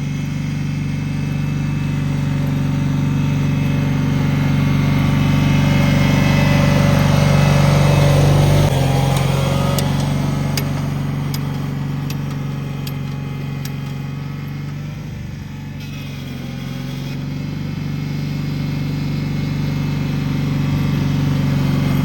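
Cub Cadet 782 garden tractor's twin-cylinder Kohler engine running steadily in the cold, its loudness swelling and fading, with a sudden small shift in its note about a third of the way in and a few faint ticks a little later.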